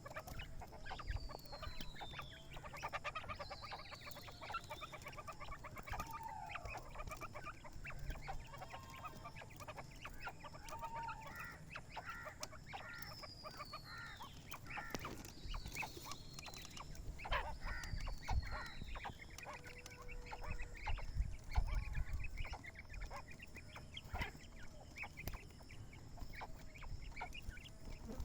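Quail (bater) calling: repeated clucking chirps with several falling whistles, over many scattered short clicks.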